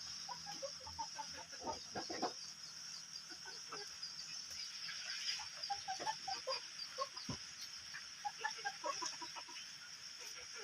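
Chickens clucking on and off in short scattered calls, over a steady high-pitched hiss. A few sharp knocks come about two seconds in and again past the middle.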